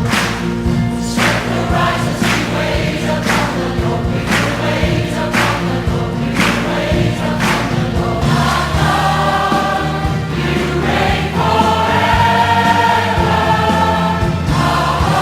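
A choir singing a worship song with instrumental backing: a steady beat about once a second, then long held chords from about halfway through.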